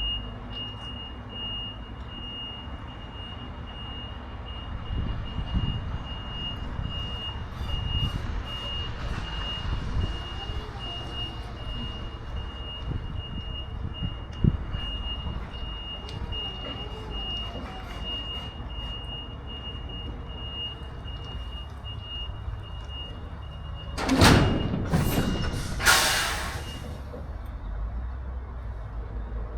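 Heavy truck's reversing alarm beeping at an even pace over a low diesel engine rumble. About 24 s in come loud bursts of hissing air, and the beeping stops soon after.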